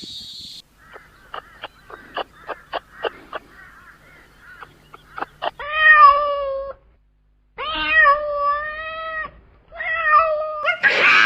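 Cat meowing: three long drawn-out meows in the second half, after a run of short faint clicks.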